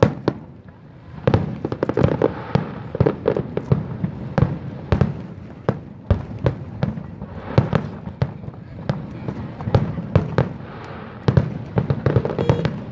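Aerial fireworks going off: a dense, irregular run of sharp bangs from the shell bursts, several a second, starting about a second in.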